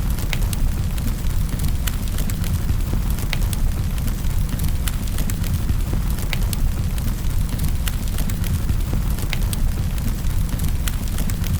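Fire in a fireplace crackling: frequent sharp, irregular snaps and pops over a steady low rumble of the flames.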